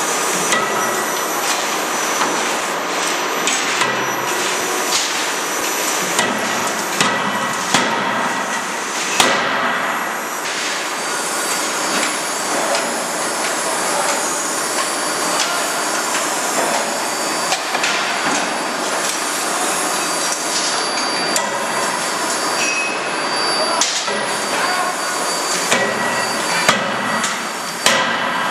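CNC hydraulic die forging hammer (31.5 kJ) striking again and again, sharp blows at uneven intervals over a steady machine noise, with a few heavier blows standing out.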